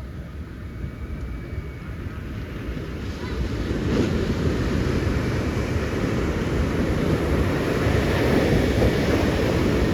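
Big ocean waves breaking and surf washing in, rising to a louder crash about four seconds in and staying loud.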